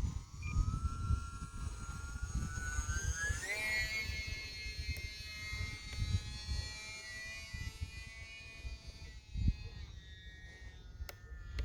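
Electric motor and propeller of a UMX Turbo Timber RC plane whining in flight. The pitch rises sharply about three and a half seconds in, then slowly sinks. Gusty wind buffets the microphone throughout.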